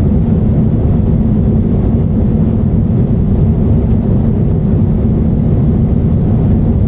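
Airbus A350-900 cabin noise in flight: a steady low drone of the Rolls-Royce Trent XWB engines and airflow over the fuselage, heard from inside the cabin, with a faint steady hum underneath.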